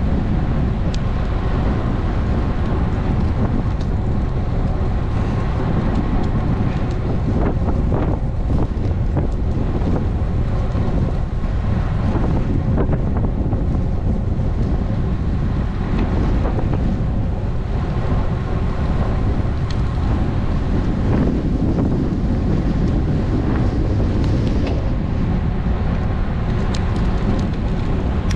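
Wind rushing over a GoPro action camera's microphone while riding a road bike: a steady rush heaviest in the low end, with a few faint clicks.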